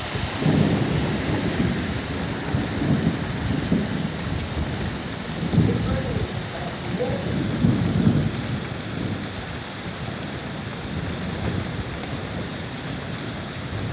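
Thunder rumbling through steady heavy rain, in two long rolls: one starting just after the beginning and another about halfway through, with the rain hissing on in between.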